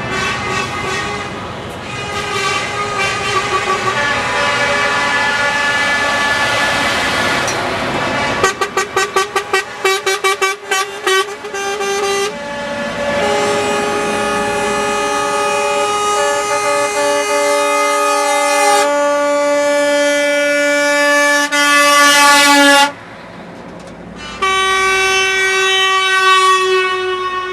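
Truck air horns sounding, chord-like blasts of several notes that overlap and are held for seconds at a time, with a run of quick short toots about nine seconds in. Engine noise runs underneath for the first eight seconds or so.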